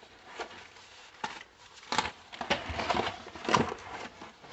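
Cardboard packaging being handled and rummaged through: irregular rustles, scrapes and light knocks, busiest in the second half.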